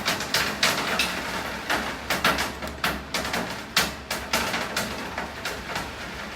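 Rain falling steadily, with heavy drops striking a hard surface in irregular sharp taps, several a second, over a constant hiss.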